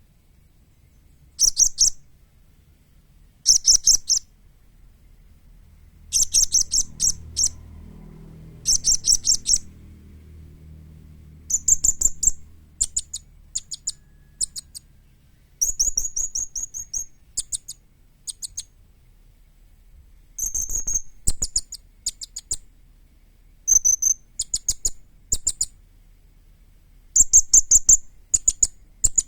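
Young blue-crowned hanging parrot (serindit) calling: bursts of rapid, high-pitched chirps about a second long, separated by pauses. In the second half the bursts give way to shorter, sparser single and paired chirps.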